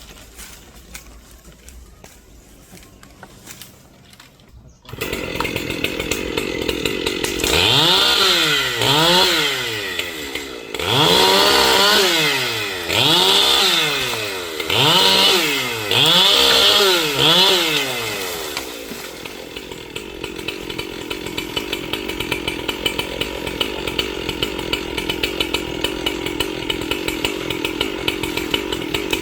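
Large gas chainsaw starting about five seconds in and running. It is revved up and down about six times, each rev rising and falling in pitch, then settles back to a steady idle.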